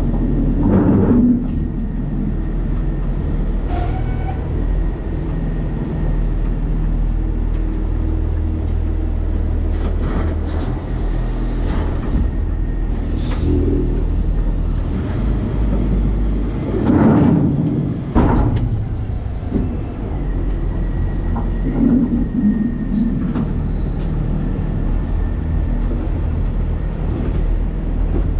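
New Way Sidewinder side-loading garbage truck rumbling steadily, heard from a camera in its hopper, with a few clanks and rattles of the truck body, the loudest a little past the middle.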